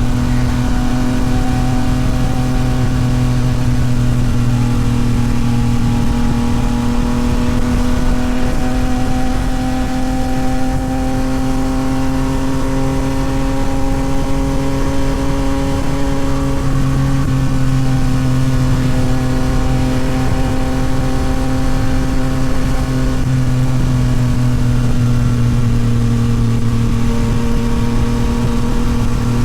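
Yamaha MT-09 SP's three-cylinder engine breathing through a Toce full aftermarket exhaust, running steadily at cruising revs. The pitch climbs slowly through the first half and eases back down later, with no sharp revs.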